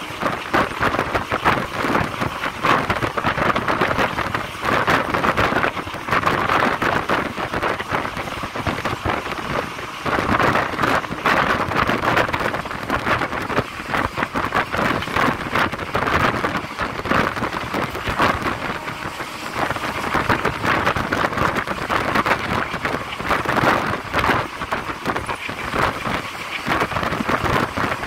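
Running noise of a moving train heard from on board: a steady, unbroken rushing with a fine rattle through it.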